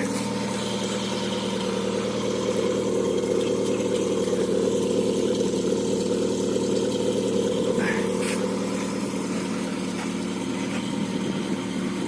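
VAZ-2114 idling steadily through a modified exhaust system.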